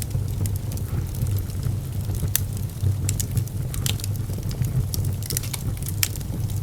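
Fire in a fireplace crackling, with sharp irregular pops over a low steady rumble.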